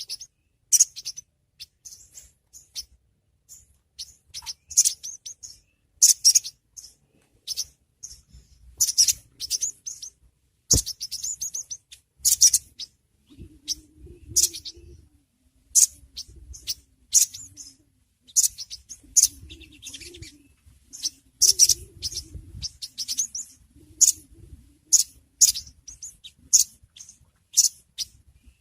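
A sogon (sogok ontong) sunbird calling: short, sharp, high chirps repeated about once a second, uneven in spacing and strength. It is a lure recording of a female in breeding condition calling for a male.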